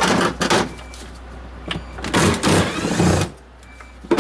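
Cordless drill/driver backing out a panel screw in a refrigerator. The motor runs in two bursts: a short one at the start, then a longer one of about a second from two seconds in.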